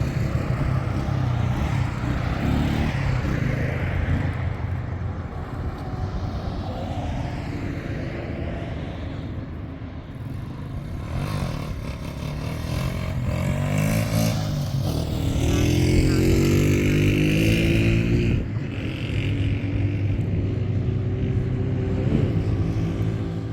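A motor vehicle's engine running, revving up with a rising pitch about two-thirds of the way through.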